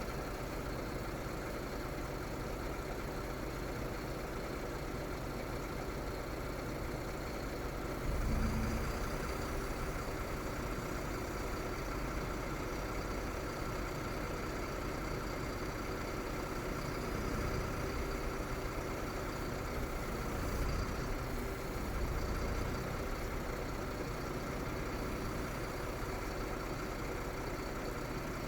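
Diesel engine of an IVECO Stralis AT260S35 truck idling steadily, with a brief louder low rumble about eight seconds in.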